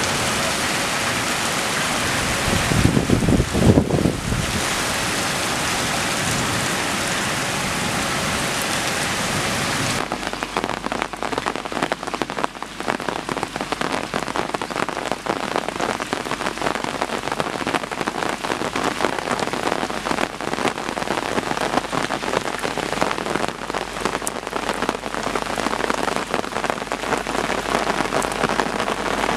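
Heavy monsoon rain pouring in a dense, steady hiss, with a louder low rumble swelling about three seconds in. About ten seconds in the sound changes abruptly to close, distinct raindrops pattering on a surface.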